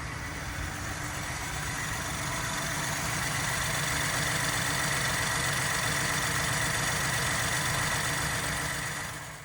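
Ford Transit 250 van's engine idling steadily, fading out near the end.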